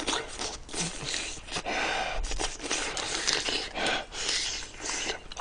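A man chewing braised pork ribs close to the microphone: irregular mouth noises in quick succession.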